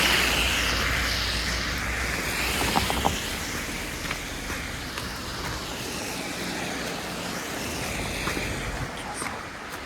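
A car passing on the street after a snowfall, its tyre hiss loudest at the start and fading over the first few seconds, then a steadier background hiss of traffic. Two short clicks about three seconds in.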